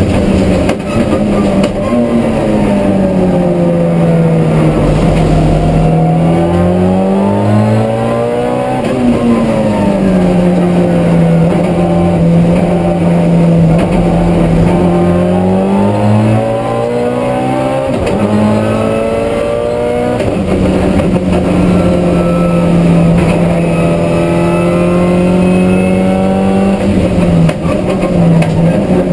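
Race car engine heard from inside the cabin at full throttle on a circuit. Its pitch rises and falls repeatedly as the car accelerates, changes gear and slows for corners.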